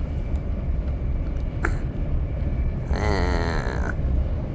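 Steady low rumble of a passenger train running, heard from inside the carriage. A single click sounds about a second and a half in, and a short voice-like hum or grunt about three seconds in.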